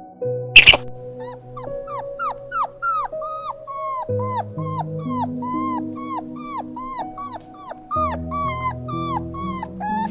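An animal giving a rapid run of short, high yipping or whimpering calls, about three a second, each rising then falling in pitch, over soft background music. A single sharp click sounds just under a second in.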